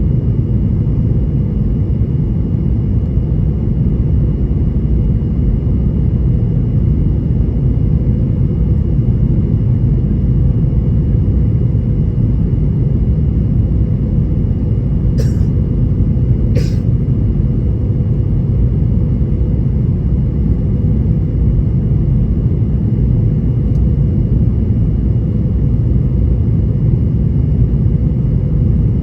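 Boeing 737-800 in flight: the steady low roar of its CFM56 engines and rushing air, with a faint steady hum over it. About halfway through, two brief hissing sounds come a second or so apart.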